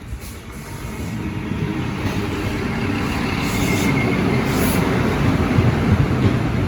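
A train approaching on the tracks, its rumble growing steadily louder throughout.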